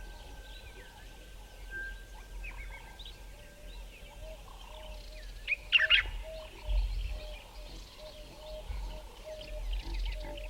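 Several wild birds calling and singing in valley bushveld at dawn, with many short chirps and whistles. A thin held whistle sounds early on, one loud sharp call comes about six seconds in, and a run of short, low, evenly repeated notes follows in the second half, over a low rumble at times.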